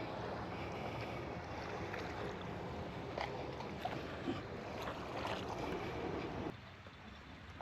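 Steady wind and water noise at the shore, with a few short clicks and knocks of handling in the middle; the noise drops off suddenly near the end.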